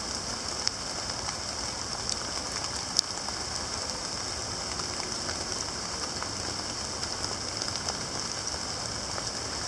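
Steady rain falling on leaf litter in woods, an even hiss with a few sharper drop ticks, the loudest about three seconds in.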